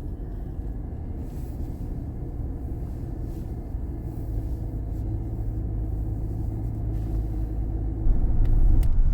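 Car driving, heard from inside the cabin: a steady low rumble of road and engine noise that builds slowly and jumps louder about eight seconds in.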